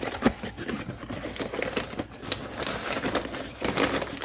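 Crinkling rustle with many small clicks and taps: a bag or container of tile grout powder being picked up and handled.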